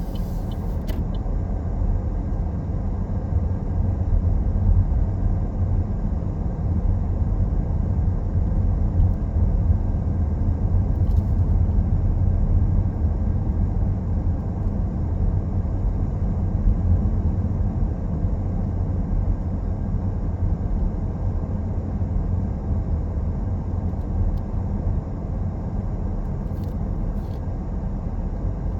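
A car driving along a road: a steady low rumble of engine and tyre noise that swells slightly for a while and then settles.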